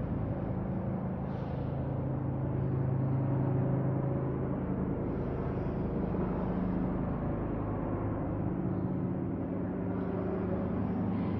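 Steady low mechanical drone with several held low tones and no sharp knocks or breaks.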